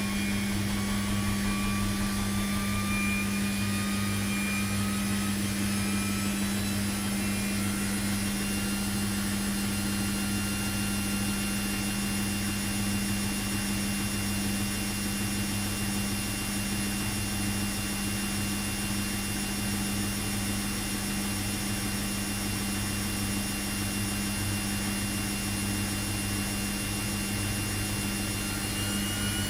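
Washing machine running: a steady low motor hum with a high whine that rises slowly in pitch over the first several seconds, then holds steady.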